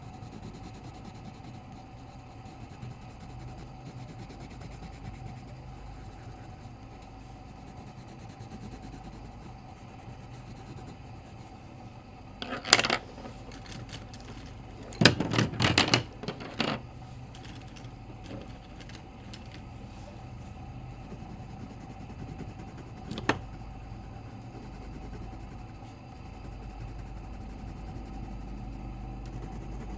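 Steady low hum with a few short clattering knocks: a cluster about twelve seconds in, a longer run of rapid clicks a few seconds later, and a single knock near three-quarters of the way through.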